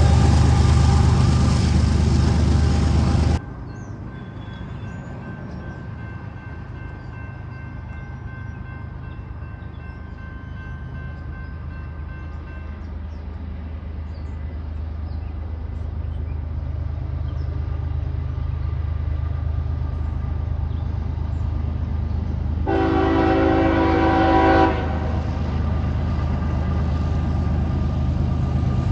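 Loud, close train noise that cuts off abruptly about three seconds in. It gives way to a diesel locomotive's low engine drone, growing steadily louder as it approaches. Near the end comes a single multi-note air horn blast lasting about two seconds.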